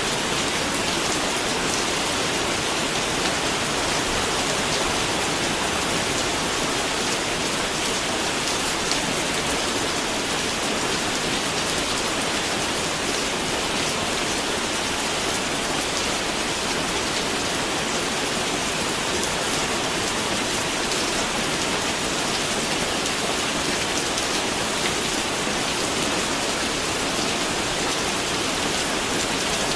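Steady rain falling on a surface, an even hiss with fine drop patter, unchanging throughout.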